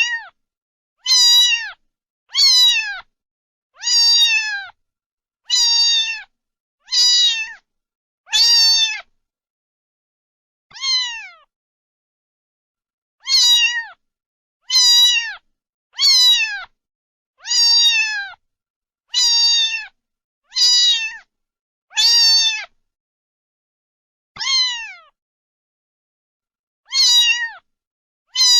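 A cat meowing over and over, one high meow about every second and a half, each falling in pitch at its end, with a few longer pauses between some of them.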